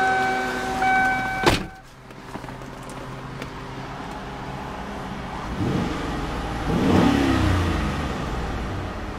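A car's interior warning chime pulses and is cut off by a sharp thump about a second and a half in. The 1995 Lincoln Mark VIII's 32-valve DOHC V8 then idles and is revved up and back down once, peaking a little past the middle.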